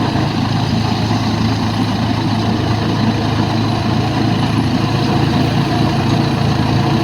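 John Deere 5405 tractor's diesel engine running steadily at a constant speed, a loud even hum.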